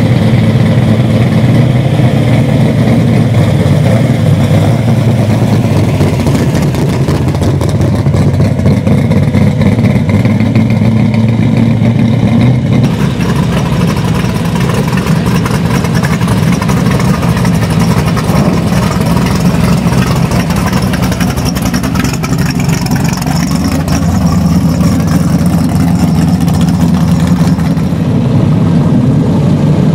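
Nostalgia drag race car engines running loudly and steadily, idling and revving, with the engine note shifting a couple of times.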